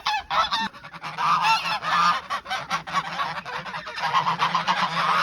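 A flock of domestic geese honking and gabbling, many calls overlapping. A run of quick sharp clicks sounds through the middle.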